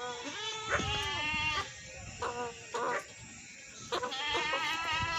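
Goats bleating in a series of wavering calls: a long bleat at the start, two short ones in the middle, and another long bleat near the end.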